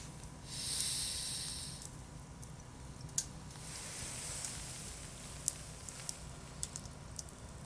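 Wood campfire burning: a hiss from the burning wood swells and fades twice, with scattered sharp crackles and pops.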